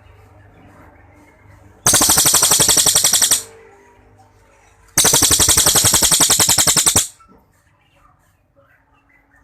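A cililin songbird delivering two long, rapid rattling trills, each a quick even string of notes like machine-gun fire; the first lasts about a second and a half, and the second, starting about five seconds in, runs about two seconds. These are the 'long shots' (tembakan panjang) prized in a singing bird.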